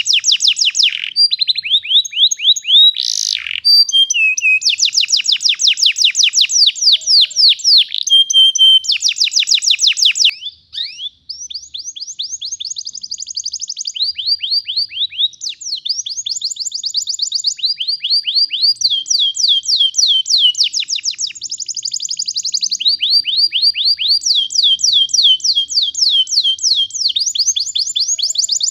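Domestic canary singing long rolling trills: rapid runs of repeated falling whistled notes that switch to a new phrase every second or two, with a brief break about ten seconds in.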